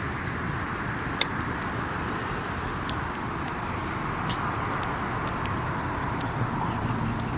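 Wood campfire burning: a steady rushing hiss with scattered sharp crackles and pops, the loudest pop about a second in.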